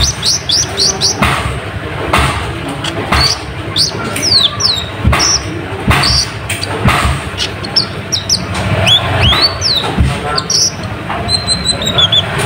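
A kolibri ninja (konin) sunbird singing busily: a fast run of high, thin chirps and down-slurred calls, over a low background rumble with a few knocks.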